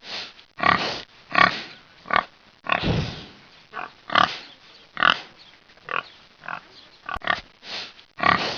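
Domestic pig grunting in a series of a dozen or so short calls, a little over one a second.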